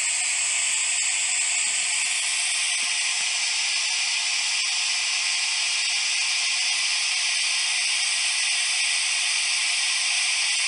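Steady, even static hiss with no variation in level.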